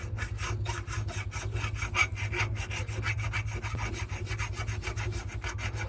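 Metal hole being cleaned out by hand with a file or similar scraping tool: rapid back-and-forth rasping strokes, several a second, kept up steadily.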